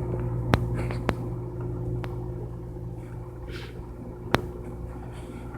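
Microwave oven running with a steady low hum, with three sharp clicks along the way.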